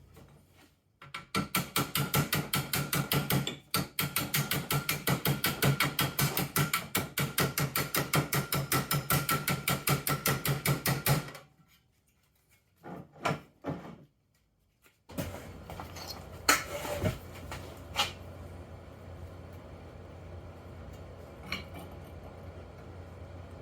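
Rapid, evenly paced hammer blows on the scooter's sheet-steel engine door as it is hammered out to a new curve, in a long run broken by one short pause and stopping about eleven seconds in. A few separate knocks follow, then a steady low hum with a few sharp clicks.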